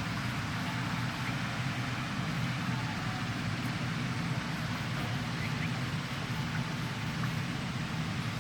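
Backhoe loader's diesel engine running steadily: an even low rumble with a steady hiss over it.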